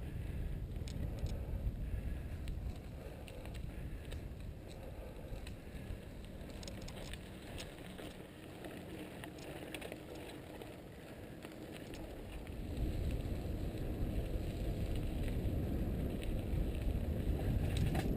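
Mountain bike rolling along a dirt trail: the tyres rumble, with wind buffeting the microphone and scattered small clicks and rattles from the bike and trail. The rumble grows louder about two-thirds of the way through, as the bike picks up speed.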